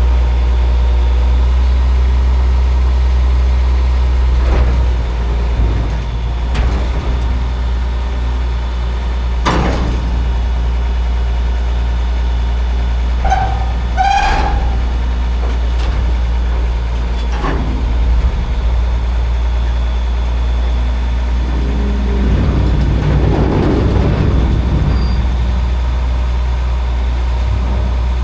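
Kubota L3901 tractor's three-cylinder diesel engine running steadily, with a few scattered knocks and clanks and a short squeal about halfway through.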